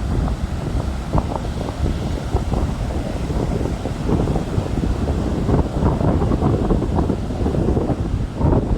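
Strong wind buffeting a smartphone microphone in a rough, gusting rumble, with sea surf beneath it.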